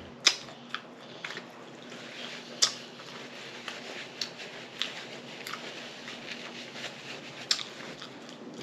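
Close-miked chewing of a mouthful of food, with irregular wet mouth clicks. The sharpest clicks come about a quarter of a second and two and a half seconds in.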